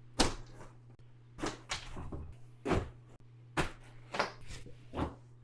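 Gear being handled and loaded: a series of separate knocks and thuds, about seven spread through, like bags and items being set down and a lid or door being closed, over a faint steady low hum.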